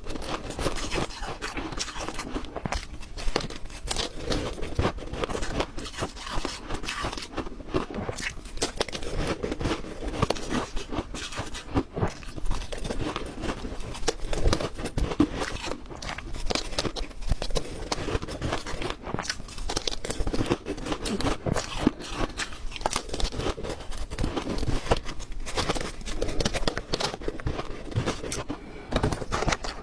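Ice being bitten and chewed close to the microphone: a dense, irregular run of crunches with no pauses.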